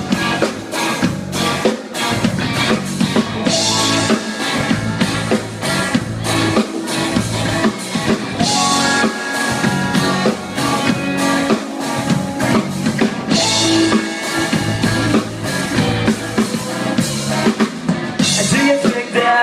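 Live rock band playing a loud instrumental stretch of a song, with a drum kit keeping a steady driving beat under guitar.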